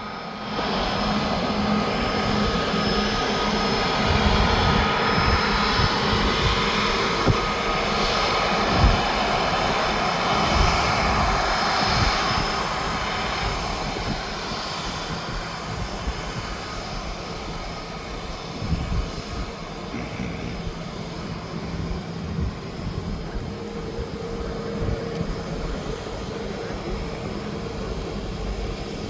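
Airbus A321's jet engines running at low power: a steady whine with several held tones over a rushing hiss, louder for the first dozen seconds and then easing off. A few low thumps are heard now and then.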